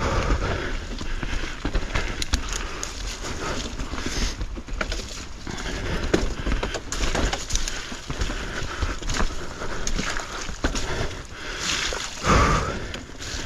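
Mountain bike being ridden along a dirt trail, heard from a camera on the rider or bike: tyres rolling over dirt and roots, with steady small rattles and knocks from the bike and a louder rush about twelve seconds in.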